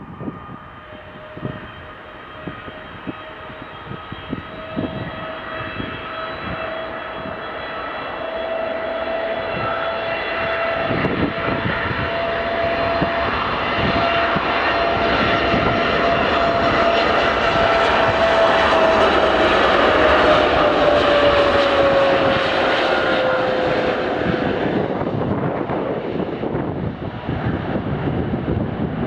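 Jet aircraft's engines at takeoff power: a rushing noise with a whine that builds for about twenty seconds, then drops in pitch and eases as the aircraft passes.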